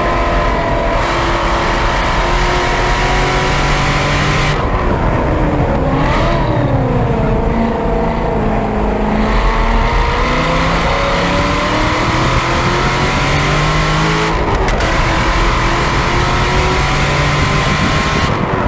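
2013 Corvette C6 Z06's 7.0-litre LS7 V8 through a Corsa X-pipe and catback exhaust, heard close up at the rear bumper under hard track driving. About a quarter of the way in the throttle lifts, with a quick rise and fall in pitch. The engine then pulls hard with the pitch climbing steadily, and about three-quarters through a gear change drops the pitch before it climbs again.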